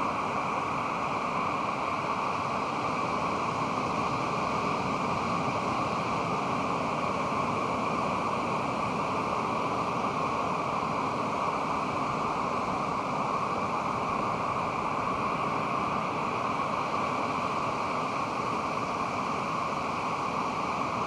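Pacific Ocean surf: a steady, even wash of noise with no single wave standing out.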